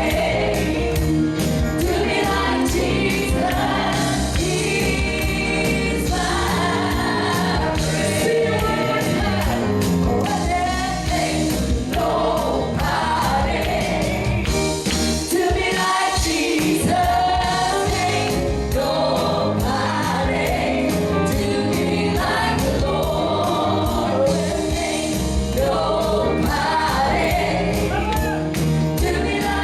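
Gospel music: a choir singing over a band, with a steady beat.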